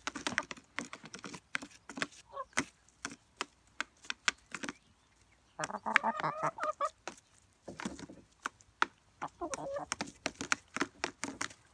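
Chickens pecking at boiled eggs, their beaks striking shell and dish in quick, irregular clicks. Squawking calls break in about six seconds in and again near ten seconds.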